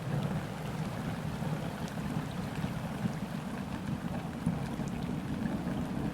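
Distant thunder rolling as a steady low rumble that swells in at the start and holds, over rain pattering on a river's surface with scattered tiny drop ticks.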